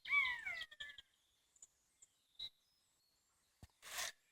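A bird calling outdoors: a short downward-sliding call right at the start, followed by a few faint high chirps, then a brief rustle near the end.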